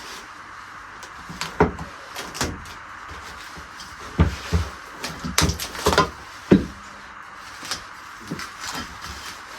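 A run of sharp household knocks and clunks, about eight of them bunched in the first two-thirds, over a steady background hiss.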